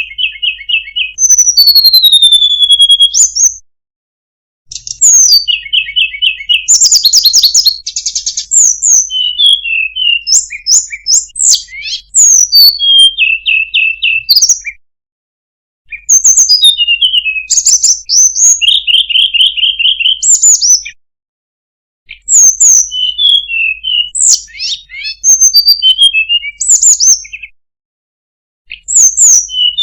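Tledekan gunung (Sunda robin) singing loudly: varied phrases of quick chirps, rapid trills and whistled slides, in bouts of several seconds separated by pauses of about a second.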